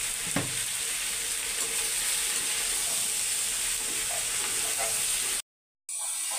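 Chunks of jackfruit and onion sizzling as they fry in oil in a steel kadai, a spatula stirring and scraping them round the pan with a few light knocks. The sound cuts out completely for about half a second near the end.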